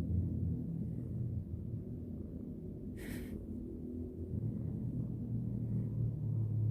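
Domestic cat purring steadily close to the microphone while being stroked, a low continuous rumble that eases slightly midway, with a short rustle about three seconds in.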